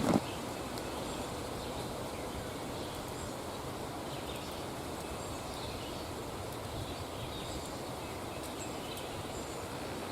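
Steady open-field ambience with faint, scattered bird calls, opened by a brief knock right at the start.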